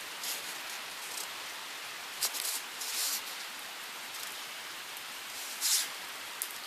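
Rain falling steadily in a windstorm, an even hiss with a few brief louder swells.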